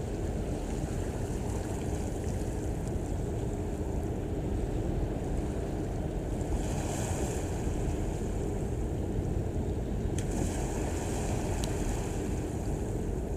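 Steady low rumble of ship engines and moving water, with a faint steady hum and wind buffeting the microphone, as a large container ship passes close by.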